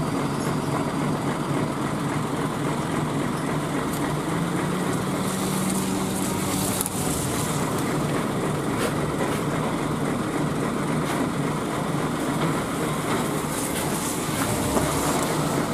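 An engine running steadily at a constant pitch, with a few faint knocks over it.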